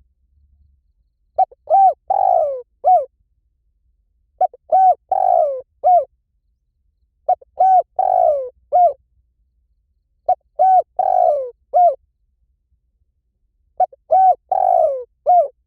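Spotted dove cooing, one phrase of several coos with a longer falling note in the middle, repeated five times about every three seconds. It is a call meant to lure spotted doves in.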